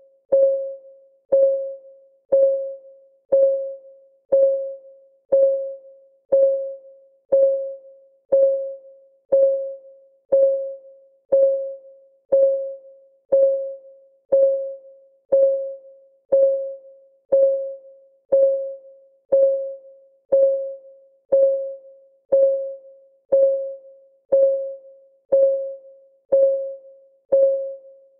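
Countdown timer's clock ticking sound: one short, pitched tick per second at a perfectly steady pace, each tick dying away quickly.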